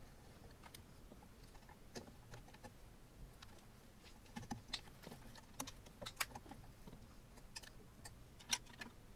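Faint, irregular small clicks and taps of metal and plastic printer parts and tools being handled during hand assembly of a 3D printer, with a cluster of louder clicks between about four and six seconds in and one sharp click near the end.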